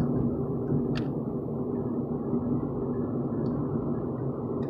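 Steady low rumble of a 2016 Nissan Versa's four-cylinder engine running, heard from inside the cabin, with one light click about a second in.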